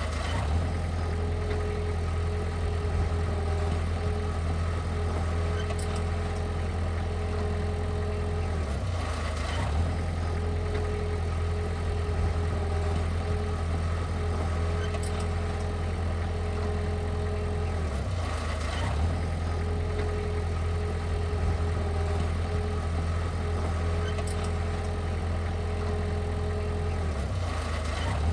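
A heavy diesel engine on earth-moving equipment runs steadily at low revs, with a deep hum and a brief dip about every nine seconds.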